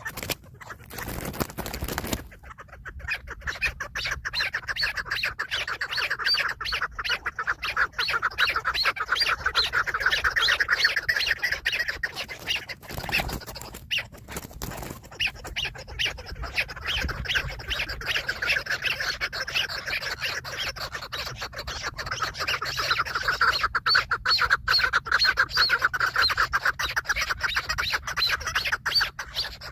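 Chukar partridge calling: a long, rapid run of short repeated chattering notes that breaks off about halfway and then starts again. A brief rustling noise comes about a second in and again in the middle.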